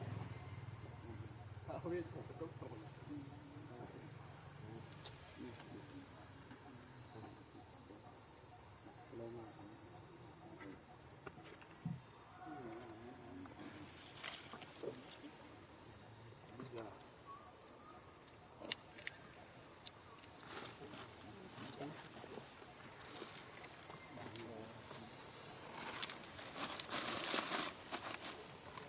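Steady high-pitched insect chorus, a continuous trill that holds unchanged throughout, with a few faint clicks and rustles near the end.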